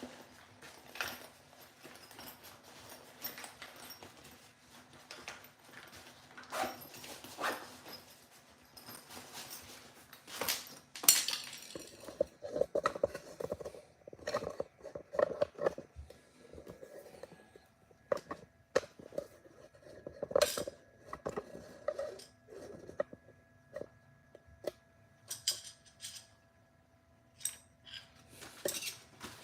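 Irregular metallic clinks, taps and clatter of hand tools and small metal parts being handled during a dryer thermal fuse replacement.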